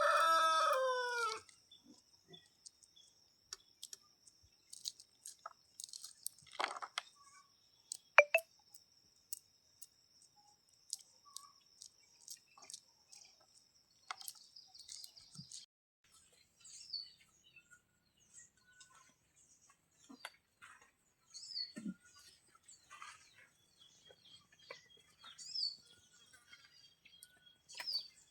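A rooster crowing, its call trailing off and ending about a second in. Afterwards come scattered small clicks, a steady high-pitched whine that stops about halfway, and brief high bird chirps every few seconds.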